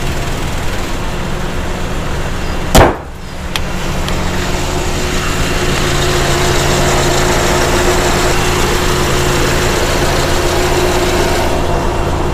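Car engine idling steadily after a jump start, with one sharp knock about three seconds in and a lighter click just after.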